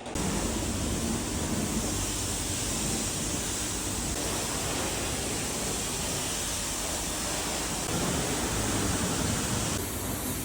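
A car driving, heard as a steady rush of wind and road noise over a low engine hum; it starts abruptly and holds level.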